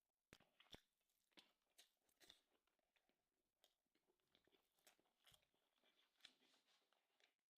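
Faint chewing and crunching of food by mouth, a run of irregular crisp clicks and crackles.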